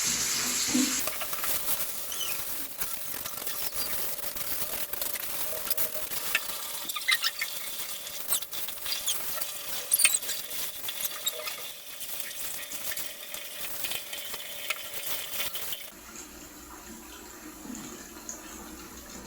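Clothes being rinsed by hand in a basin of water: sloshing and splashing with irregular splats, going quieter near the end.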